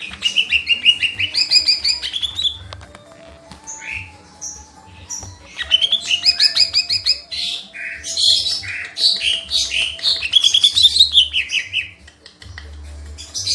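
A green leafbird (cica ijo) singing in a varied, chattering run of rapid trills and falling note series. There are two long phrases, the second starting about five seconds in, with short calls between them.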